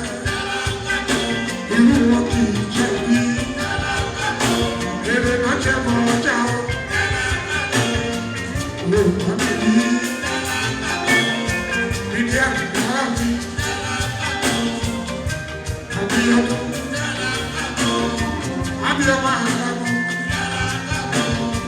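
Live fuji band playing, with dense percussion and singing over it.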